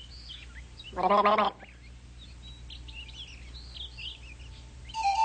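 A small bird chirps and twitters in short high phrases throughout. About a second in, a person gives a loud, half-second warbling trill. Near the end, a steady flute note starts.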